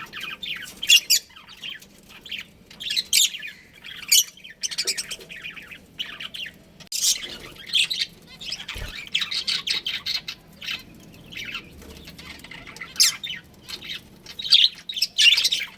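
Budgerigars chirping: many short, high calls in quick clusters with brief pauses between them.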